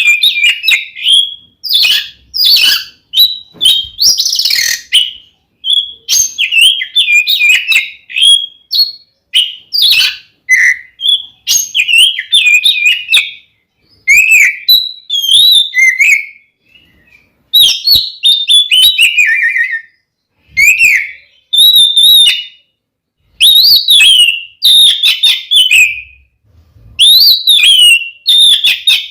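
Oriental magpie-robin (kacer) singing loudly in a fighting mood: rapid, varied whistled and chattering phrases of a second or two, separated by short pauses.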